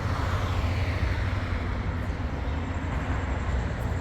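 Motor vehicle running: a steady low rumble with road noise.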